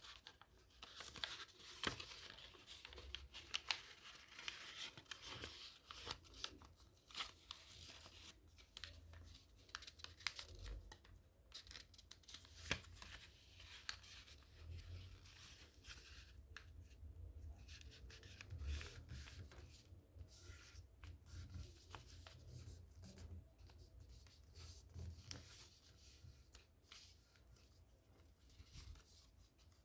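Faint paper rustling and crinkling as a sheet of origami paper is handled, folded and creased by hand. The short, irregular crackles come in quick succession.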